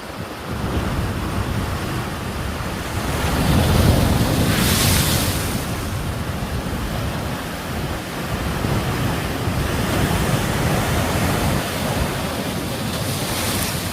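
Sea waves breaking on the shore: a continuous rumbling surf, with one wave crashing loudest about four to five seconds in and another near the end. Wind buffets the microphone.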